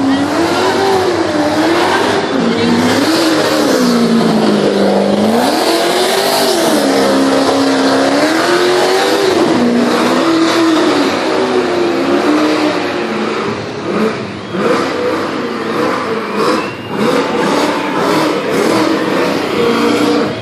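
V8 Supercar race engines running hard past the track, their pitch rising and falling over and over as the cars change gear, brake and accelerate, with several cars overlapping. The sound flutters and grows uneven for the last third.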